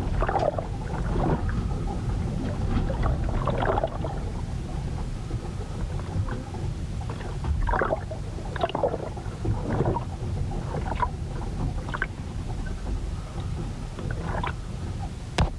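A ship riding out a storm: a steady low rumble of wind and water, with irregular creaks and groans from the hull every second or two and a sharp knock near the end.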